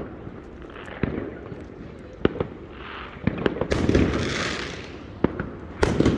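Fireworks going off at a distance: a string of sharp bangs at irregular intervals, with a crackling hiss of bursting shells about the middle and again near the end.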